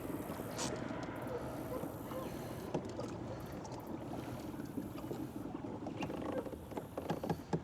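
Water sloshing and lapping against a kayak hull, with a few sharp clicks and knocks near the end as gear is handled.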